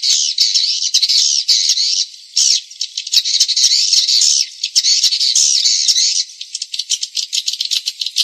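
Recorded edible-nest swiftlet calls: a dense, high-pitched chatter of rapid clicks and chirps, broken by three longer buzzy trills of one to two seconds each in the first six seconds, then rapid ticking again. It is a lure call used to draw swiftlets into a nesting house.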